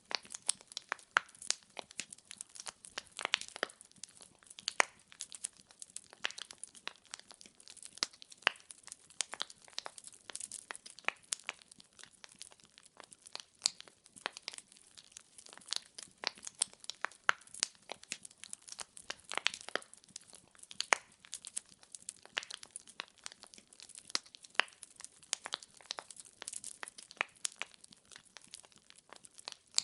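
Firewood burning in a fireplace, crackling with many irregular sharp pops and snaps over a faint steady hiss.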